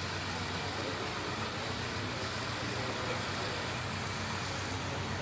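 An engine running steadily at idle, a low even hum with no change in pitch or level.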